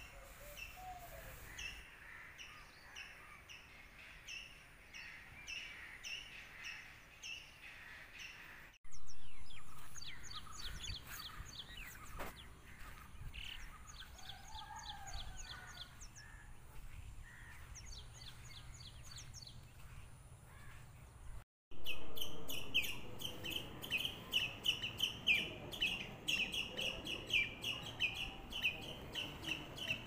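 Wild birds chirping and calling, in three stretches that change abruptly twice. The last is a fast, loud run of repeated high chirps, several a second.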